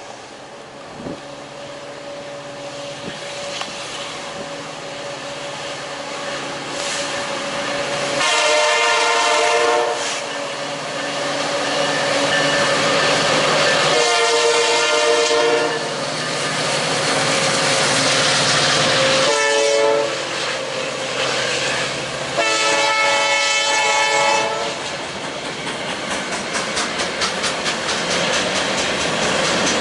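Freight train approaching with its locomotive air horn sounding the grade-crossing signal: two long blasts, a short one and a long one. Near the end the wheels click steadily over rail joints as the cars roll past.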